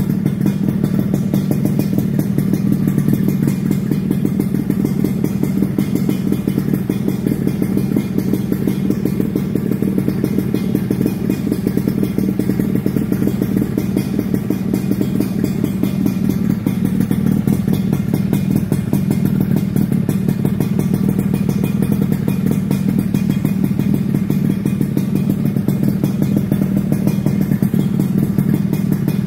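Suzuki Satria RU 120's single-cylinder two-stroke engine running steadily through a 79Dux racing exhaust, holding an even pitch without revving.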